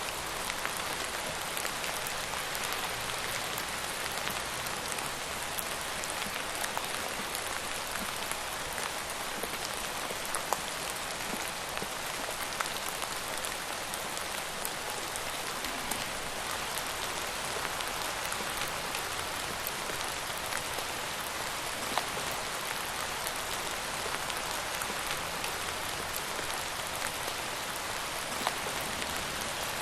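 Steady rainfall hitting a surface: an even hiss of rain with scattered individual drop ticks standing out now and then.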